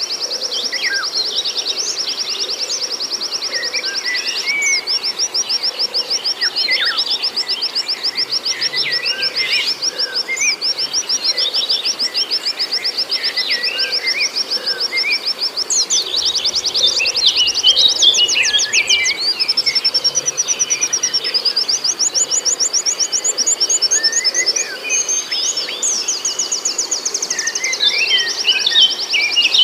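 White-eye (pleci) song: a fast, high trill held almost without a break, with brief pauses and shifts in the trill, and many short lower chirps scattered over it.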